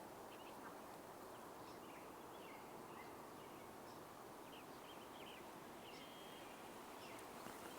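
Quiet outdoor ambience: a low steady hiss with scattered short, high bird chirps.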